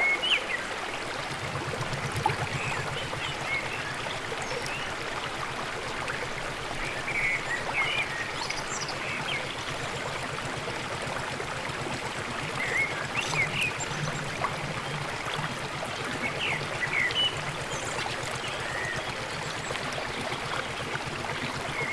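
Water falling over a dam, running steadily, with short high chirps of birds scattered throughout.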